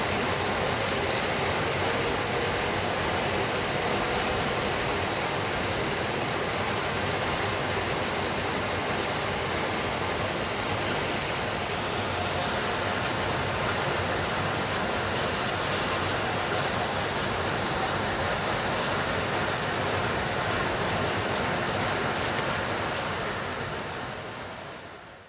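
Steady rainfall, an even hiss with faint scattered ticks of drops, fading out over the last few seconds.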